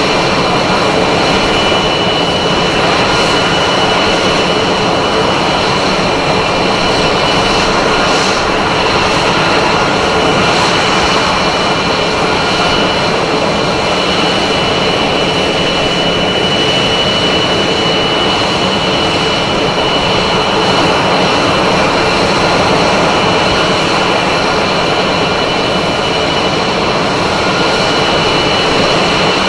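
Jet engine running at a steady power setting: a continuous, even roar with steady high whining tones that hold their pitch throughout.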